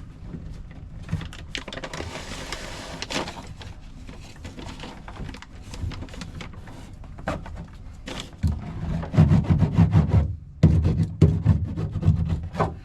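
A sound-deadening mat sheet being handled and pressed into place: crinkling, scraping and clicking. From about eight seconds in, a run of loud, low thumps and rubbing is the loudest part.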